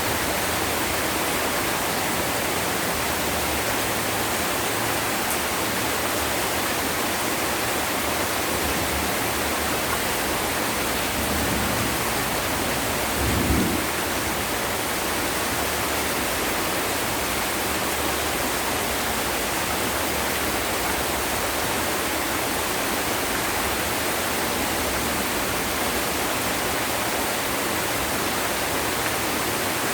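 Heavy rain falling in a steady, even downpour. About halfway through there is a short low thump.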